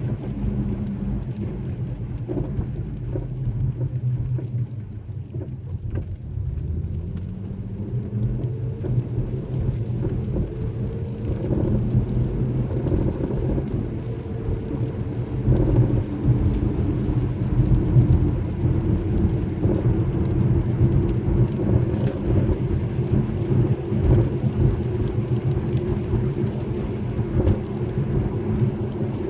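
Infiniti G37 on the move: steady tyre and road rumble with a low droning hum that climbs in pitch partway through, as the car speeds up, then holds.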